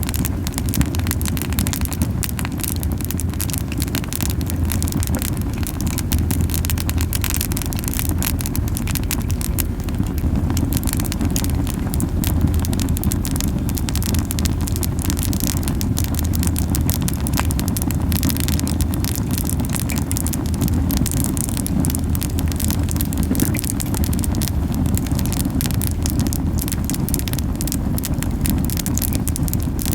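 Camellia-wood campfire burning hot, with a steady low puffing roar of the flames under dense crackling and popping. The strong puffing comes from the fire burning with too much heat.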